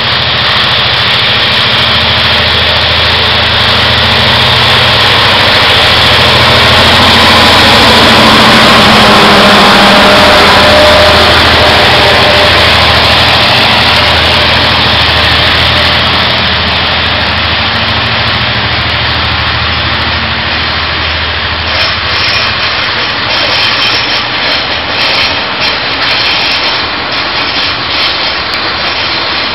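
Diesel locomotive hauling a freight train past, its engine running steadily and loudest about a third of the way through as it goes by. From about two-thirds in, the rolling open freight wagons take over with a run of wheel clicks and clatter on the rails.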